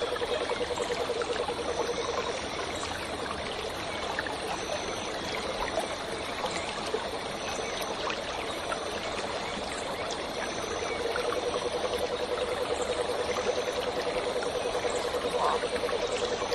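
Waterfall and stream water rushing and splashing steadily. Short high chirps repeat about every second and a half. A steady low hum comes in at the start and again from about eleven seconds in.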